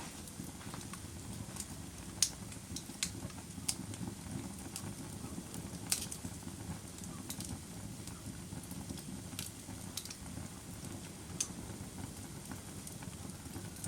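Fire crackling: a steady low rumble of flames with irregular sharp pops, a dozen or so, the loudest about two seconds and six seconds in.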